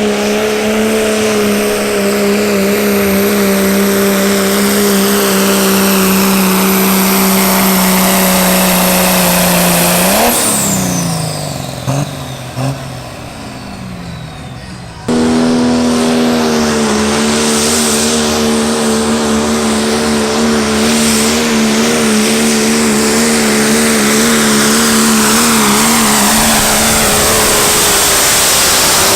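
Diesel truck engine held at high revs at a steady pitch for about ten seconds, then dropping off. After a quieter stretch it comes back abruptly at high revs again.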